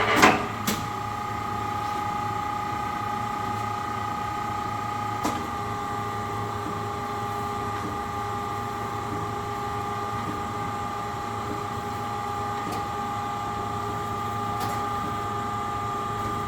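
Brown & Sharpe 1224 Micro Master surface grinder running with its wheel spindle and hydraulic system on, a steady machine whine of several held tones over a low hum. A few sharp clicks come just after the start, and a single knock about five seconds in.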